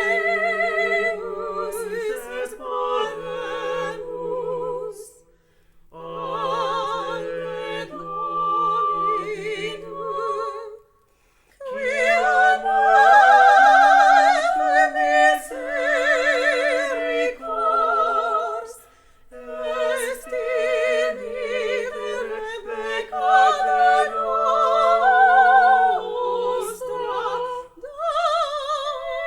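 Three classically trained voices singing a slow sacred Latin piece in parts, with wide vibrato: a low voice sustains long notes beneath two higher ones. The phrases stop briefly twice, about five and a half and eleven seconds in.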